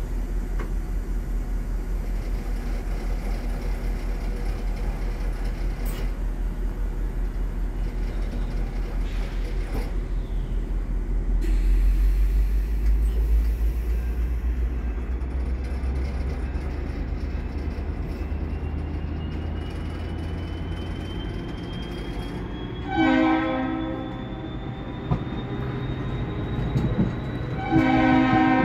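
Commuter train locomotive idling with a steady low hum, then powering up about twelve seconds in as the Comet V train pulls out. The coaches roll past with a slowly rising whine, and two short horn blasts sound near the end.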